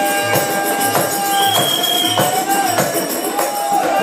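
Live music for a Fiji tirikutu dance: regular drum strokes and jingling, like tambourine or ankle bells, under a long held melody line that bends slowly in pitch.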